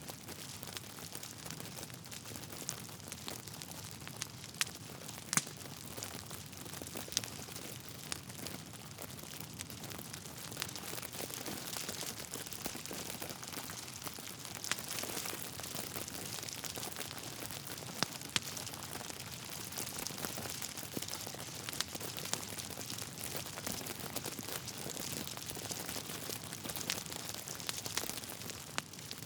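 Logs burning in a fireplace, crackling with irregular sharp pops over a steady hiss.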